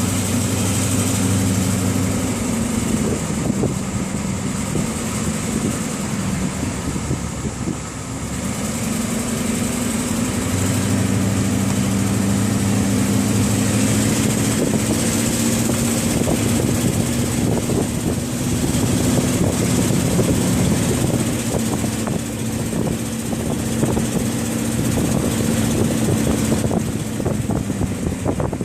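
Ford 7.3 IDI V8 diesel engine running, its note dipping and picking up again about ten seconds in, with a rapid ticking that the owner suspects is an exhaust leak.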